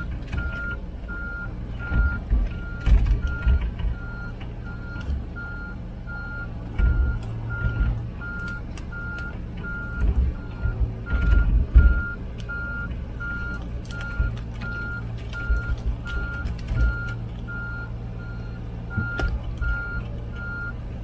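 Komatsu PC16 mini excavator travelling on its tracks: the diesel engine runs steadily under a travel alarm beeping about one and a half times a second. Irregular knocks and rattles come through as it drives over rough ground.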